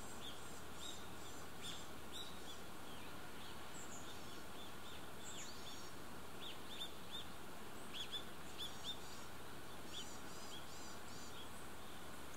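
Small birds chirping: short, high, falling notes in quick runs, busiest about eight seconds in, over a steady outdoor hiss.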